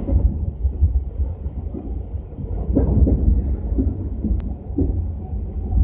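Loud low rumble inside a passenger train coach as it runs, with scattered knocks and rattles and a single sharp click about four seconds in.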